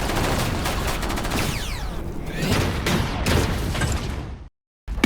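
Action soundtrack sound effects: rapid gunfire-like bursts and booms layered with sweeping whooshes, cutting off abruptly into a moment of silence near the end.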